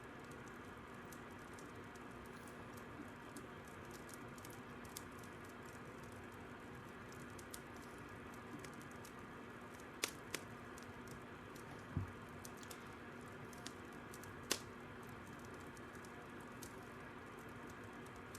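Fire crackling under a steady soft hiss, with scattered irregular pops, the sharpest two about ten seconds in and another near fourteen and a half seconds, plus a soft low thump about twelve seconds in.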